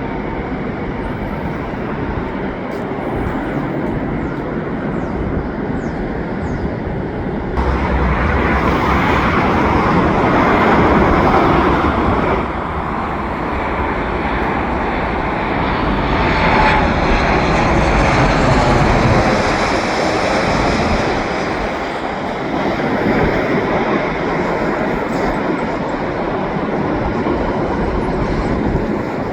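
Jet engines of an airliner on final approach passing over, a continuous jet noise that grows louder about eight seconds in, swells twice and then eases off.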